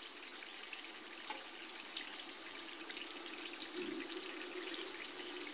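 Faint, steady sizzling with fine scattered crackles from chicken frying in spiced oil and masala over a low flame.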